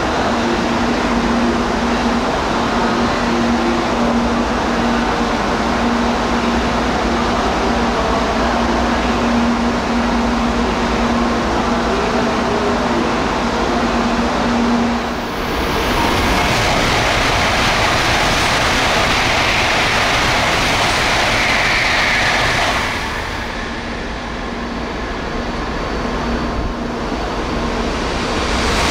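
Tokaido Shinkansen train running: a loud, continuous rush of wheel and air noise with a steady hum under it for the first half. The sound changes abruptly about 15 seconds in and again about 23 seconds in.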